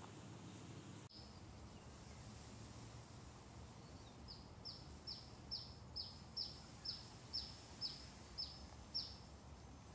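A bird calling a run of about a dozen short, high notes, each falling in pitch, roughly two a second, over faint steady outdoor background noise.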